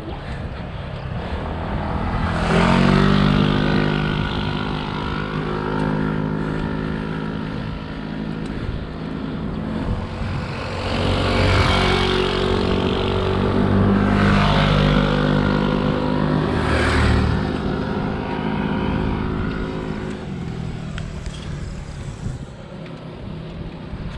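Motor vehicle engines passing close on the road, getting louder and fading away three times: about three seconds in, around eleven to twelve seconds, and around seventeen seconds.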